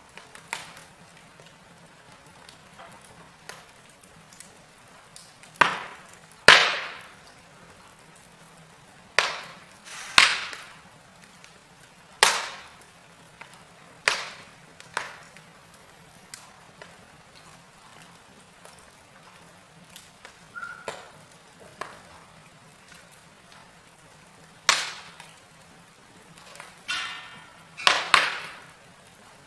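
Wood fire in a fireplace crackling, with about a dozen sharp pops and snaps from the burning logs at irregular intervals over a low background. The loudest snap comes about six and a half seconds in, and several come close together near the end.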